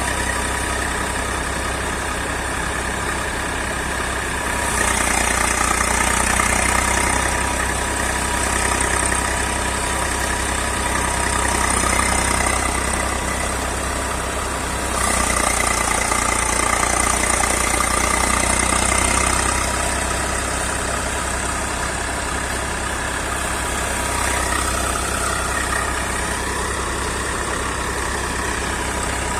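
Diesel tractor engine running steadily, getting louder for a couple of seconds about five seconds in and again for a few seconds past the middle.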